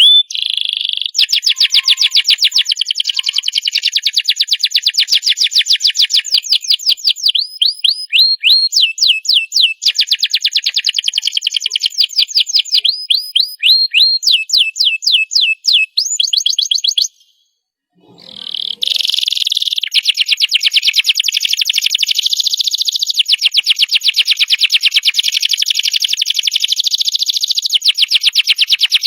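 Domestic canary singing a long song of fast trilled rolls and series of rising chirps, repeated many times a second. The song breaks off briefly a little past halfway, then resumes as one unbroken trill.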